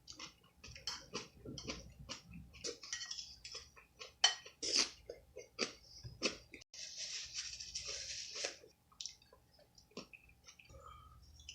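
Close-miked eating sounds: many quick clicks and taps of cutlery and dishes mixed with chewing, and a stretch of rustling noise lasting about two seconds, around seven seconds in.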